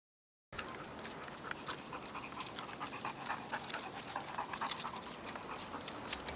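Dog panting with quick, short breaths, starting suddenly about half a second in.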